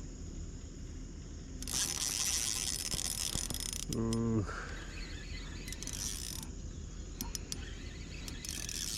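Light-line fishing reel being worked by hand: a whirring stretch from about two seconds in, another shorter one later, and a scatter of small sharp clicks near the end. A brief vocal sound comes about four seconds in.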